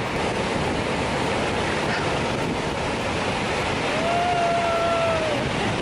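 Pacific Ocean surf and wind on the microphone, a steady rushing noise. About four seconds in, a faint drawn-out call lasts just over a second.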